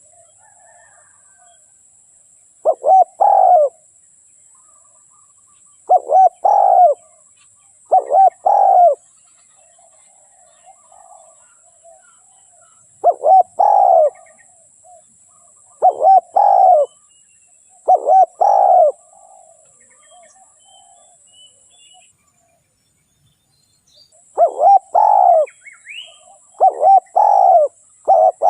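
Spotted dove (tekukur) cooing: a series of short phrases of two or three throaty coos, repeated every few seconds, with faint chirping of small birds between them.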